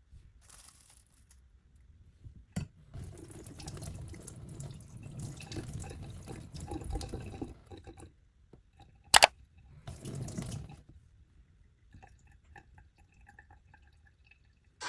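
Kitchen tap running into a sink in two spells, with a single sharp clink, the loudest sound, about nine seconds in.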